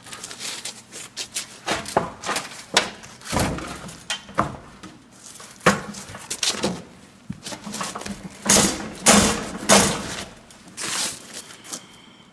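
Irregular knocks, clanks and scraping from work on a snow plow's mounting frame, the loudest cluster about 8.5 to 10 seconds in.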